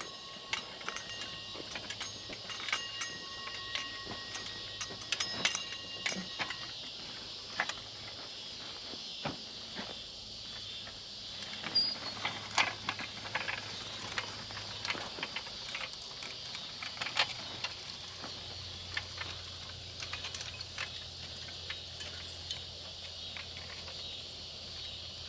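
Push garden seeder being rolled along a row, sowing radish seed: irregular clicking and rattling from its wheel and seed plate.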